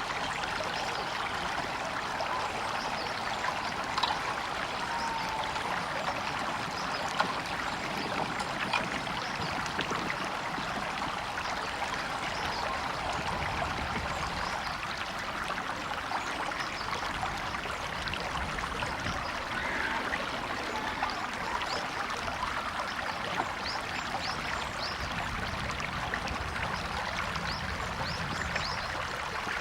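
A river or stream running steadily over stones, an even rushing with small trickling splashes.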